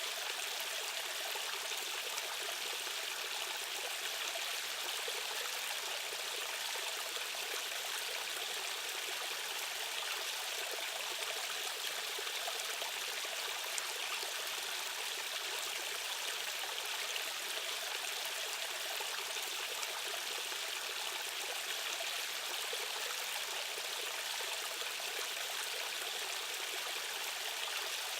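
Rushing water of a stream's current, a steady, even hiss of flowing water with little low rumble.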